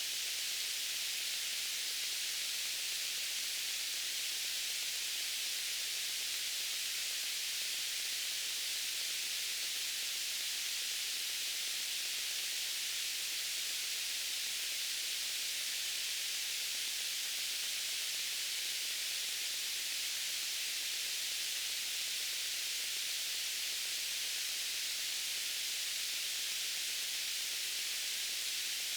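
Steady white-noise hiss, weighted toward the high treble, with no change in level.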